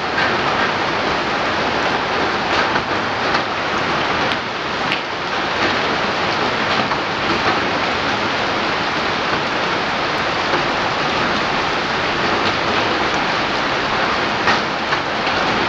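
Steady heavy rain falling on surfaces, a dense even patter with scattered individual drops.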